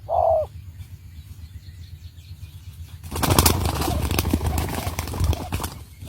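A spotted dove's cooing note ends at the very start, then about three seconds in a dove flaps its wings hard in a loud flurry that lasts about three seconds.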